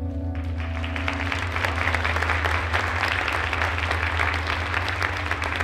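Audience applause breaks out about half a second in, many hands clapping, over the final held chord of the music, which fades within the first second or so. A low hum runs underneath.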